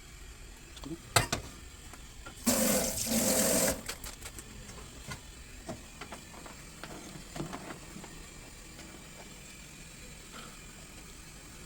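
A sharp click, then a loud wet slurp of noodles lasting just over a second, followed by scattered small clicks and mouth sounds of eating.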